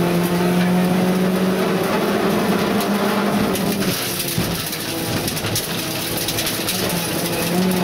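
Rally car engine running at high revs, heard from inside the cabin. About four seconds in the engine note drops and wavers, with scattered clicks and rattles, then settles back to a steady high note near the end.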